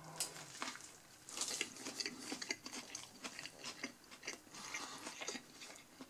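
A person chewing a mouthful of burger close to the microphone: irregular soft crunches and wet clicks.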